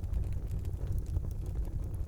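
Wood fire burning in a fireplace: a steady low rush of the flames with light, scattered crackles.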